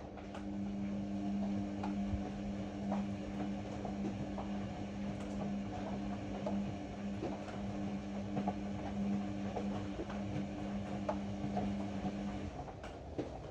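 Ariston AML125 washer-dryer running: a steady hum that stops about a second before the end, over a bed of small knocks and rattles.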